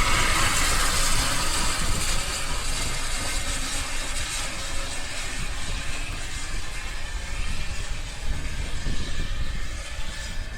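Steam locomotive running on the line: a broad hiss that is loudest at the start and fades over the next few seconds, over a steady low rumble.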